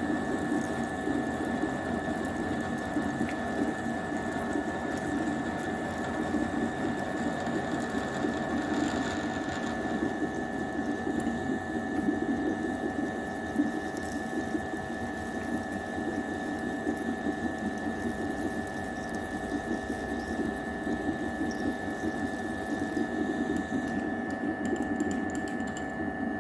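A small electric motor running steadily at a constant speed, a continuous buzz with a fixed high whine over it.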